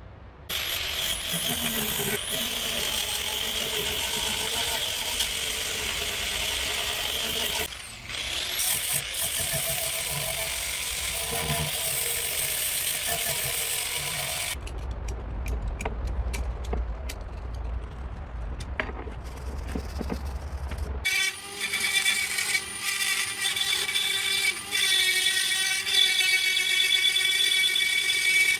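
Power tool working on metal parts: a hissing, squealing abrasion for the first half, then a spell of scattered clicks over a low rumble, then a steady high motor whine from about two-thirds of the way in.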